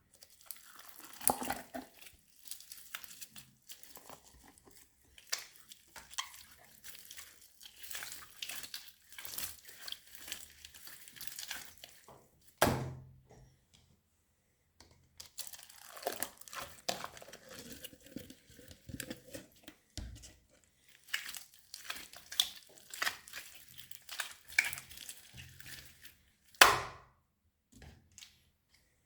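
A large mass of slime being squished, stretched and folded by hand, giving irregular crackling, crinkling and sticky popping sounds. Two louder sharp snaps stand out, one about halfway through and one near the end.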